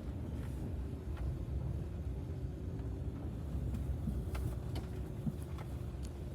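Camper van rolling slowly along a campground road, its engine and tyres making a steady low rumble with a faint steady hum above it and a few light knocks.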